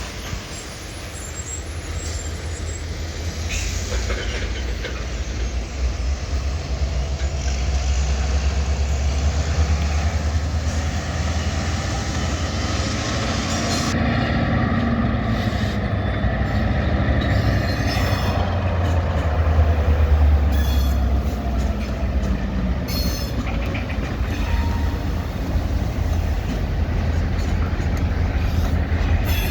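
EMD diesel switching locomotives running in a rail yard with their cars rolling along the track: a steady low diesel rumble that builds about a quarter of the way in and stays strong.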